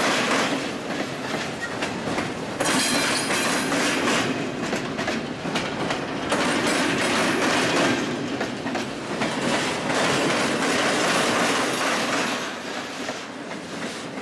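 Double-stack intermodal freight train's container well cars rolling past, steel wheels running over the rails in a steady rumble and hiss that swells every three to four seconds.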